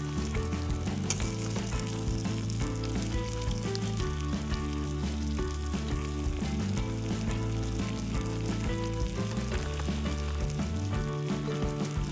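Continuous sizzling crackle, dense with tiny pops, over background music of sustained low notes and chords.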